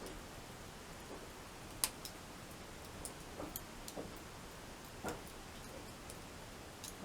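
Wood campfire crackling: a faint steady hiss with scattered, irregular pops and snaps, the sharpest about two seconds in.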